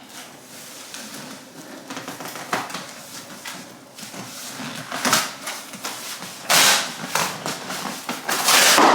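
Irregular rustling and knocking of things being handled, with a few louder bursts and the loudest near the end.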